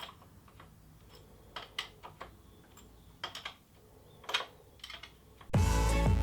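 Scattered light clicks and taps of hand tools and small parts being handled during work on the motorcycle, a few at a time with quiet gaps between. About five and a half seconds in, loud background music with a strummed guitar starts abruptly.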